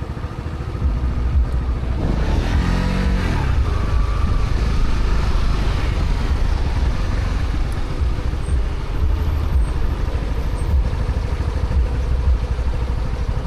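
Honda CB125R's single-cylinder 125 cc engine running through its stock exhaust on the move, with a steady low rumble and wind noise. About two seconds in, a pitched engine note rises and then falls.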